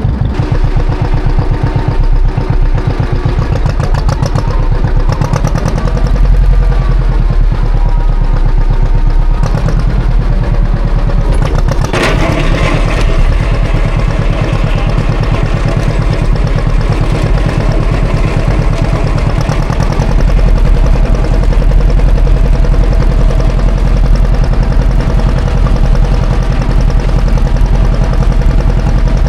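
John Deere 530's two-cylinder tractor engine running steadily with a fast, even pulse while plowing snow with a rear blade. There is a single sharp clank about twelve seconds in, and the engine is a little louder from about twenty seconds in.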